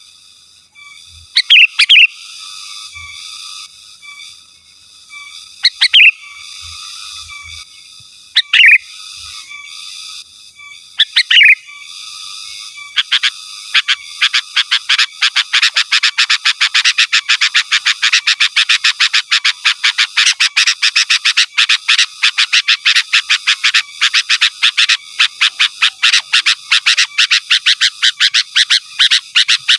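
Sooty-headed bulbul (kutilang) calling loudly: four separate calls a few seconds apart, then from about halfway a fast, unbroken run of sharp repeated notes, several a second.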